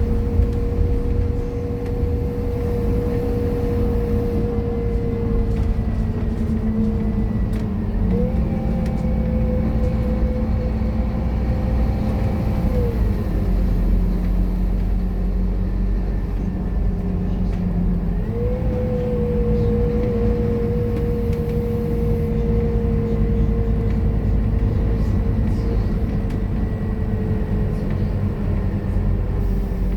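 Scania K230UB bus's five-cylinder diesel engine and transmission running under way, with a strong steady whine that jumps up in pitch about 8 and 18.5 seconds in and sinks slowly in between as the bus speeds up and slows.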